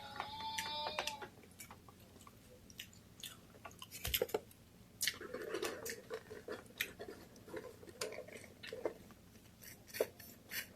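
A person chewing and biting a mouthful of fish dinner close to the microphone, with scattered crisp clicks and soft wet mouth sounds.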